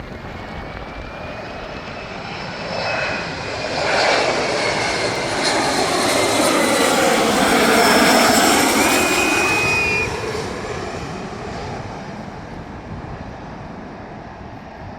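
Jet airliner on landing approach passing low overhead: engine noise builds over several seconds, peaks about eight seconds in with a thin high whine, then fades away.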